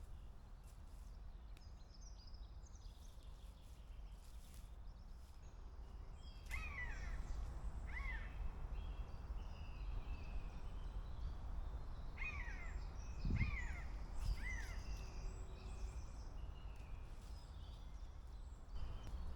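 Birds calling outdoors: several short calls that drop in pitch, in small clusters, over a steady low rumble, with a single low thump about two-thirds of the way through.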